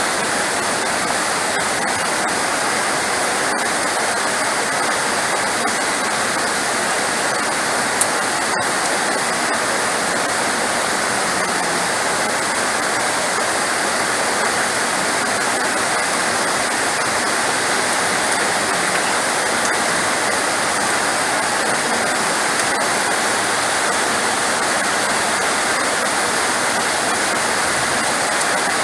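Heavy rain pouring steadily as a dense, even hiss, with one faint click about eight seconds in.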